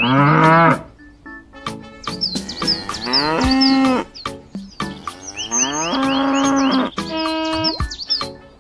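A cow mooing about four times, long drawn-out calls that bend in pitch, with a repeated high chirping behind them.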